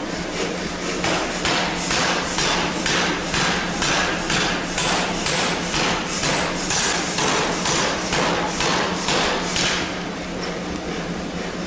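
Forging hammer striking steel in a fast, even series of blows, about two to three a second, over a steady low hum; the blows become less distinct near the end.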